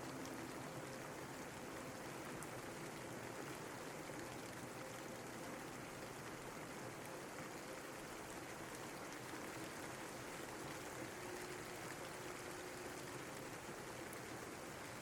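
Steady rain falling: an even, unbroken hiss, with a few faint ticks of single drops.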